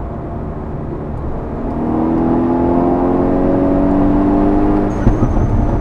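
Stage 2+ tuned VW Golf 6 R's turbocharged 2.0 TSI four-cylinder accelerating hard at full throttle, its engine note rising steadily for about three seconds, then breaking off near the end as the revs drop.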